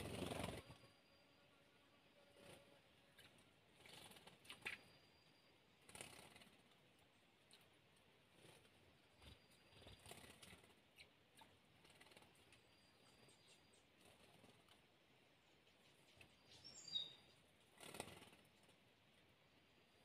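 Near-silent forest ambience: a short rustle at the very start, then scattered faint rustles and clicks, and a small bird's quick run of high, falling chirps near the end.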